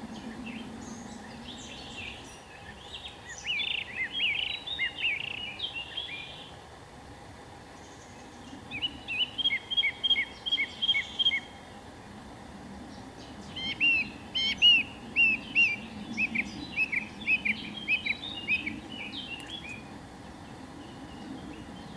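A songbird singing in three bouts of quick repeated chirping notes, the last and longest in the second half, over a faint steady background hum.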